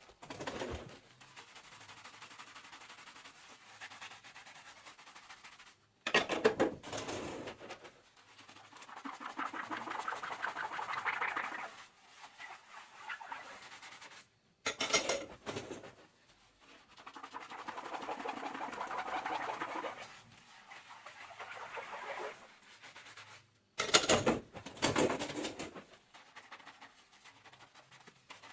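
Dishes being hand-washed at a kitchen sink. There are three short bursts of clattering as dishware is handled, about six, fifteen and twenty-four seconds in, and between them stretches of sponge scrubbing that swell and fade.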